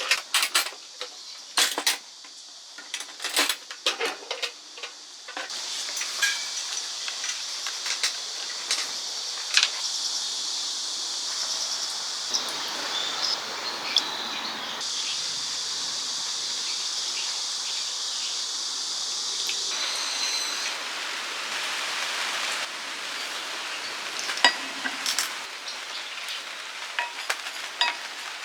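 Metal utensils clinking against a pan, then food sizzling steadily in a hot pan for most of the time, with more clinks of stirring and turning near the end.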